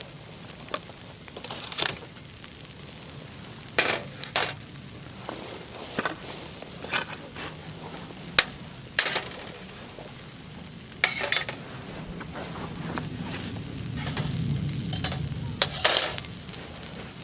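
Cooking over a wood campfire: a steady sizzle and rush of the fire with sharp clicks and clatters every second or two.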